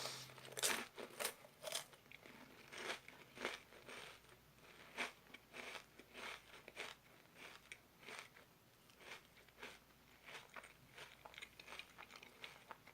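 Crisp wafer cone of a chocolate ice cream cone being bitten and chewed close to the mouth: a string of irregular crunches, louder in the first few seconds and then quieter.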